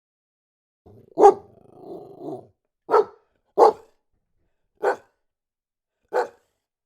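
A dog barking five times at uneven intervals, with a lower, longer growling sound after the first bark.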